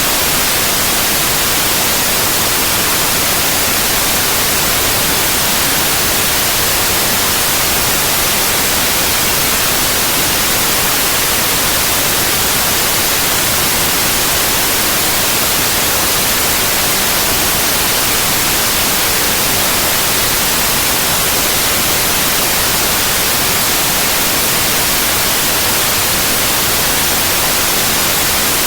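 Generated white noise: a steady, unbroken hiss, brightest in the treble, with no change in level.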